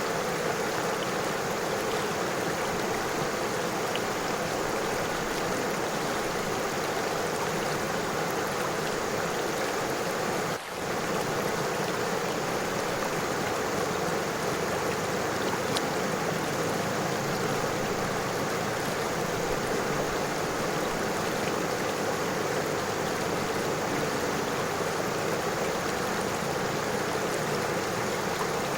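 A river flowing steadily over stones: a continuous rush of water with small splashes and trickles. The sound dips briefly about ten seconds in, then carries on unchanged.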